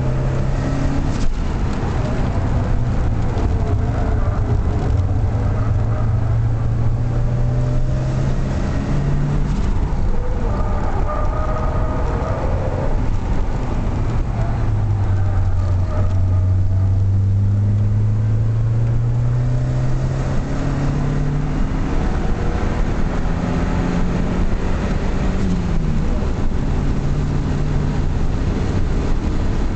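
Lancia Delta's engine heard from inside the cabin at speed on a track, pitch climbing steadily as it pulls through the gears and dropping back at gear changes about ten seconds in, again around twenty-one seconds and near twenty-six seconds, over loud road and wind noise.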